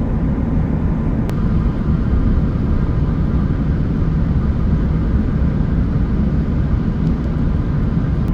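Steady low road and engine noise heard from inside a moving vehicle.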